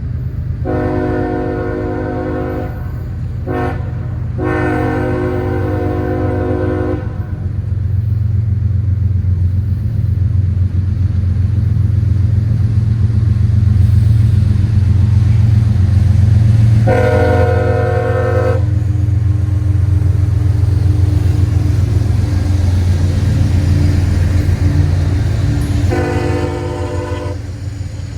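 Freight train's diesel locomotives sounding a multi-chime air horn in several blasts (two long ones with a short one between, then two more separated by long gaps) over the steady rumble of the engines as the train passes, rumble loudest in the middle.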